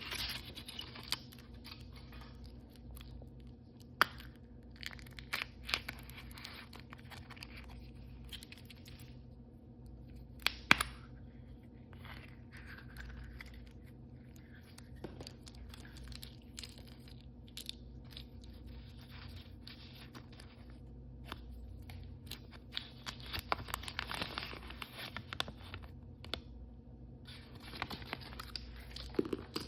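Blind-bag packaging being handled, crinkled and torn open, in short rustling bursts with a couple of sharp clicks, the loudest about 11 seconds in.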